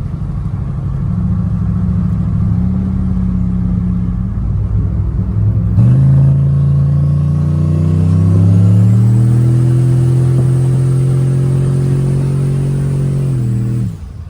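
A big-turbo Chevy Silverado accelerating hard. The engine climbs in pitch, breaks to a lower pitch about six seconds in as it shifts, then pulls again. A high turbo whine rises and holds steady through the second pull. Near the end the throttle lifts and the engine sound drops off abruptly.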